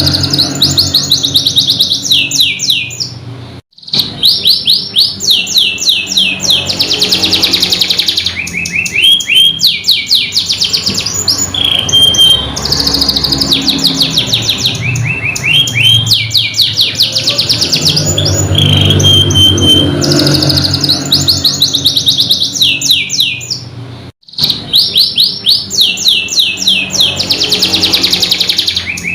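Domestic canary singing a long, continuous song of fast, high rolling trills and repeated chirping phrases. The song stops for a moment twice, about four seconds in and again about twenty-four seconds in.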